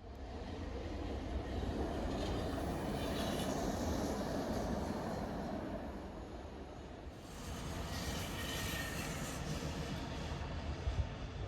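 A Roslagsbanan narrow-gauge electric train running along the track: a steady rumble of wheels on rail that swells, dips and swells again.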